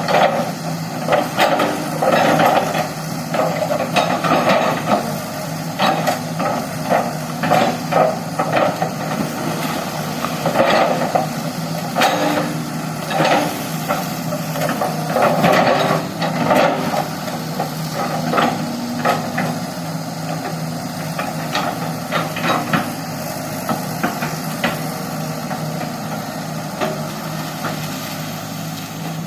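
Excavator's diesel engine running steadily, with frequent knocks and clanks as it works.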